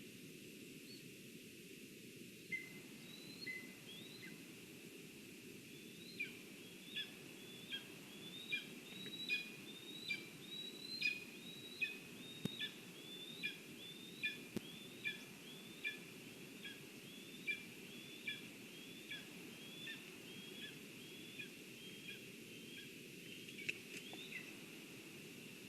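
A bird calling a long, even series of short, downward-slurred notes, a little more than one a second, over a steady outdoor hiss.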